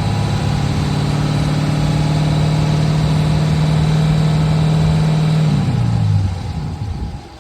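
Straight-piped Dodge Charger R/T's 5.7 HEMI V8 running with a loud, steady exhaust tone. About six seconds in, the pitch drops and the sound dies away as the engine is shut off.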